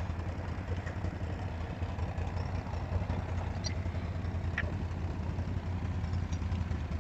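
Four-wheeler (ATV) engine idling with a steady, even low hum.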